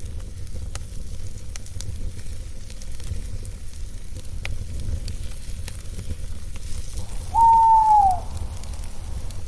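Campfire burning with a steady low rumble and scattered sharp crackles. About three-quarters of the way in an owl gives one loud hoot of under a second, its pitch rising slightly, then dropping away at the end.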